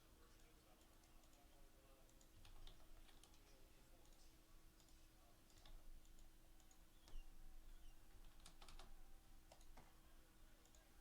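Faint computer keyboard typing and clicking in scattered short runs, over a steady low hum.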